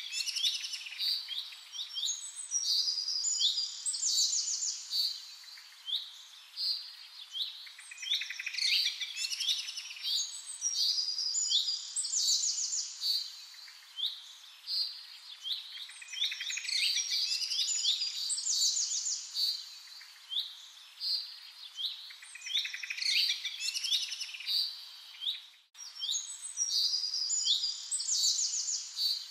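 Birdsong: high chirps and trills in clusters that recur in a repeating pattern about every four to eight seconds. It cuts out for an instant near the end.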